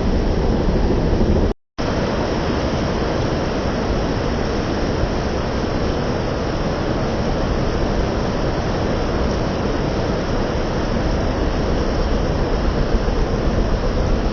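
Heavy rain falling steadily in a dense, even hiss, broken by a short gap of silence about a second and a half in.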